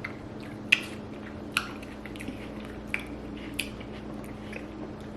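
Chewing on Kool-Aid-coated watermelon, whose sugar has set hard, with a few sharp crunches or smacks about a second apart over a steady low hum.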